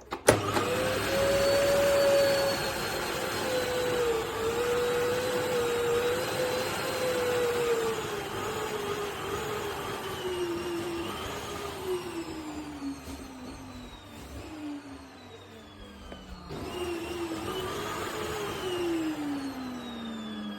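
Duronic VC8 stick vacuum cleaner's motor starting abruptly and running with a rushing airflow noise. Its whine wavers and slowly sinks in pitch, breaks off briefly about three-quarters of the way through, then sinks again near the end.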